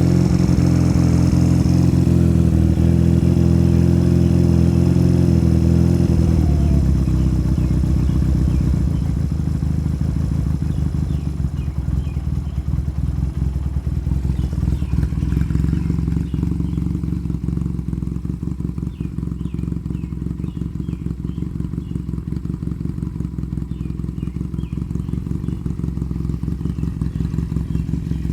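1987 Honda CMX250 Rebel's parallel-twin engine running through Jardine Slashcut aftermarket pipes. It is held at raised revs at first, then drops about six seconds in to an even, steady idle pulse.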